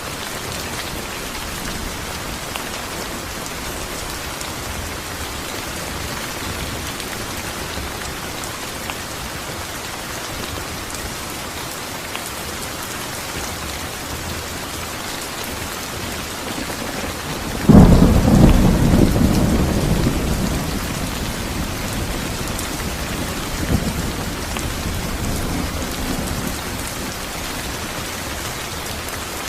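Steady heavy rain falling. About 18 seconds in a loud thunderclap breaks out and rumbles away over several seconds, with a fainter rumble of thunder a few seconds later.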